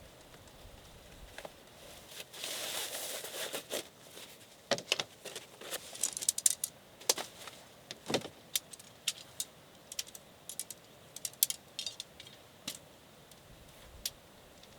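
Small metal items clinking and rattling as gear is handled: a rustle about two seconds in, then a long irregular run of sharp clicks and clinks.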